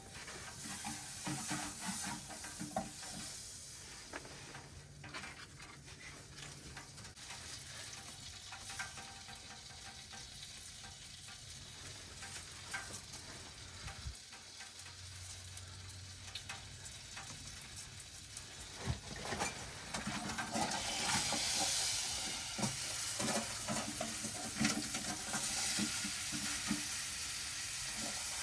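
Ice-cold steak frying in butter in a pan: a steady sizzle with scattered crackles, which grows louder about twenty seconds in.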